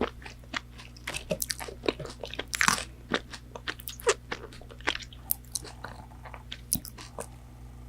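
A person chewing crispy McDonald's fried food into the microphone: irregular crisp crunches and small mouth clicks, the loudest crunch about two and a half seconds in.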